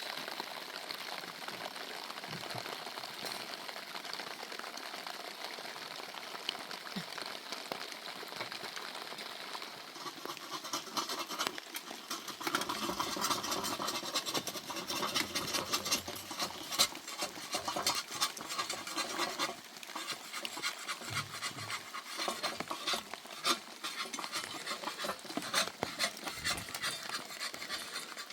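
Steady rain patter, then from about ten seconds in, a metal spoon scraping and clinking irregularly in a cooking pot as food is stirred.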